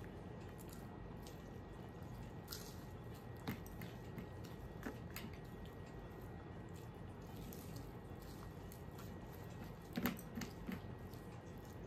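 Faint mouth sounds of biting into samosas and chewing, with a few scattered sharp crisp clicks; the loudest cluster comes about ten seconds in.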